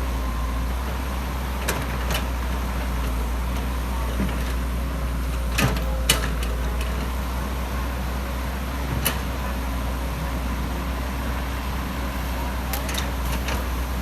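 Excavator engine running steadily with a deep drone, with a few sharp knocks, the loudest about six seconds in.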